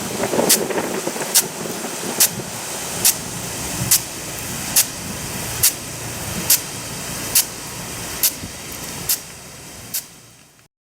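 Nelson F100 Big Gun irrigation sprinkler running, its drive arm clacking into the water jet about once every 0.85 seconds over the steady hiss of the spray. The sound fades near the end and then cuts off.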